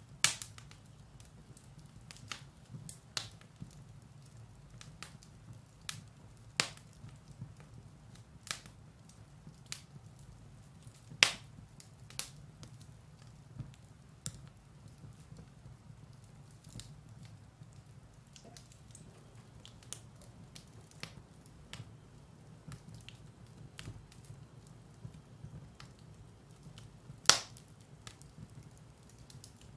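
Firewood burning in a fireplace: irregular sharp crackles and pops, with three loud snaps near the start, about eleven seconds in and near the end, over a low steady hum.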